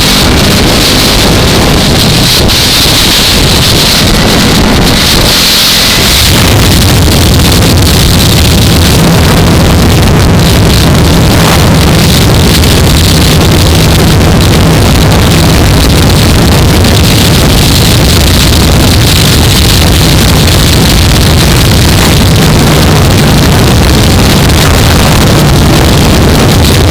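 Heavy wind noise on a helmet-mounted microphone over the steady drone of a Yamaha R3's parallel-twin engine at cruising speed. The engine note drops out briefly about five seconds in, then holds steady.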